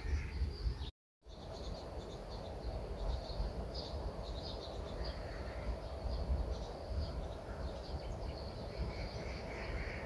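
Small birds chirping in short repeated high notes over a steady low rumble of outdoor background noise; the sound cuts out completely for a moment about a second in.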